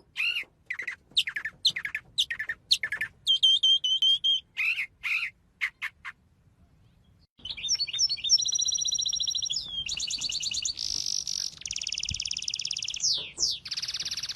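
Songbird singing: a string of short chirps and whistled notes, a brief pause about six seconds in, then fast high trills and buzzy rattling phrases.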